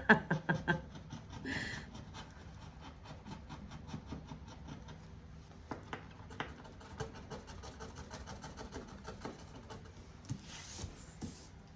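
Quiet handling of paper and cash at a table: faint scattered ticks and light taps, with a short paper rustle near the end.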